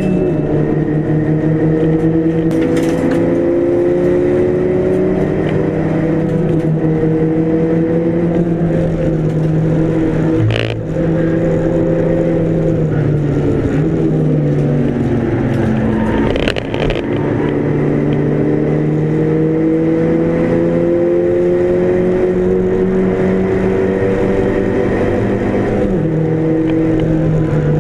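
Mk5 Golf GTi race car engine under hard load, its pitch climbing slowly through long pulls. The engine breaks off briefly twice, about eleven and seventeen seconds in, with a short sharp click each time, typical of gear changes.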